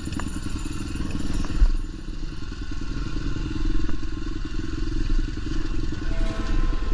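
Dirt bike engine running on a trail ride, its rapid firing pulses rising and falling with the throttle, with a loud clattering thump about a second and a half in.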